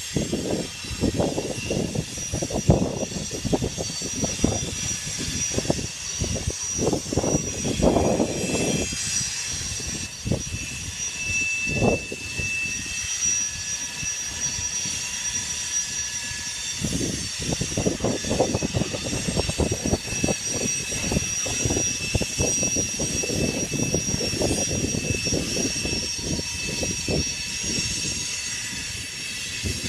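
Freight cars of a grain train rolling past, their wheels clattering irregularly over rail joints in bunches, easing for a few seconds midway. A thin, steady high-pitched wheel squeal runs over it.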